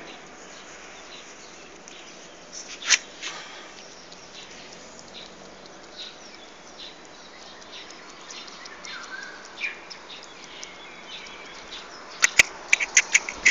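Quiet outdoor background with faint, scattered bird chirps, one sharper chirp about three seconds in, and a quick run of sharp clicks near the end.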